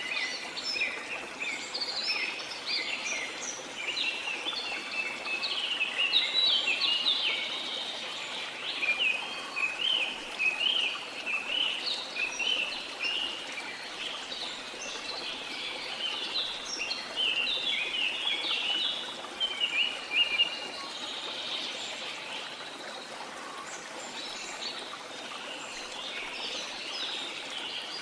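Many birds chirping and singing in quick, overlapping phrases over a steady rush of flowing water. The bird calls thin out about three quarters of the way through, leaving mostly the water.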